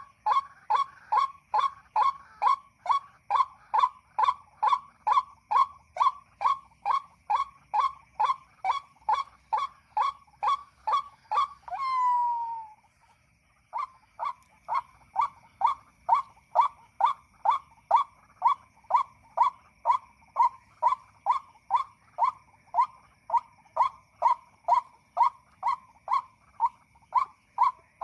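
White-breasted waterhen call from an MP3 bird-caller: an even run of loud notes, about two a second. Around the middle the run ends on one longer falling note, stops for about a second and a half, then starts again.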